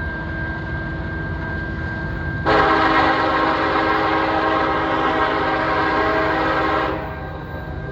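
Diesel freight locomotive horn sounding one long chord of about four and a half seconds, over the steady low rumble of a loaded grain train's CN locomotives and cars. A thin steady high tone sits under it throughout.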